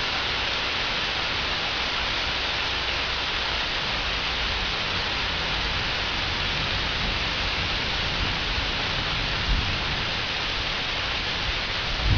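Heavy rain falling steadily during a thunderstorm, with a couple of brief low thumps, one about nine and a half seconds in and another near the end.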